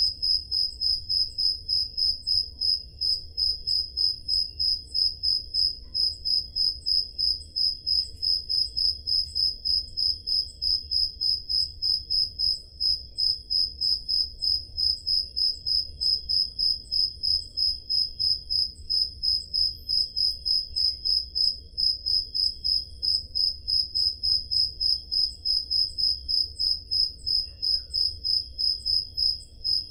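Crickets chirping steadily: one close, loud cricket repeats high chirps at an even pace of about three a second, with fainter crickets chirping behind it.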